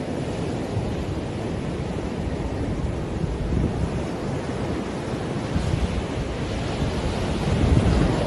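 Wind buffeting the microphone over the steady wash of surf, swelling a little near the end.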